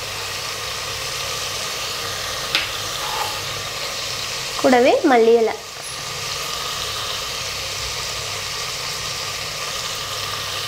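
Onions, ginger-garlic paste and green chillies sizzling steadily in ghee and oil in an aluminium pressure cooker, with a single sharp click about two and a half seconds in.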